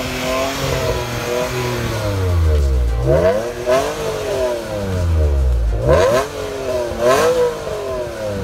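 Alfa Romeo 156's V6 24-valve engine free-revving. The revs fall away from a blip at the start, then climb and drop back twice more, the second time with a quick double rise.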